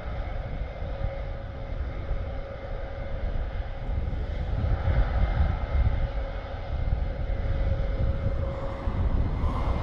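Airbus A400M's four TP400 turboprop engines running with a steady hum and a held mid-pitched tone, as the aircraft pauses at the end of the runway before its takeoff run.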